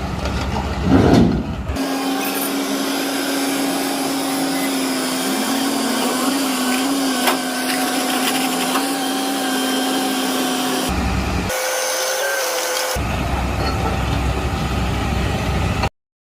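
Backhoe loader's engine and hydraulics running with a steady whine, in several spliced pieces that cut in and out abruptly. The sound stops dead near the end.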